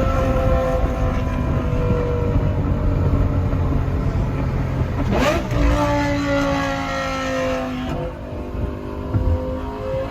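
Lamborghini Gallardo Superleggera's 5.0-litre V10 on an aftermarket exhaust, heard from inside the car. The revs fall away, a sharp bang about five seconds in is followed by a jump in revs, they fall again, and they climb near the end.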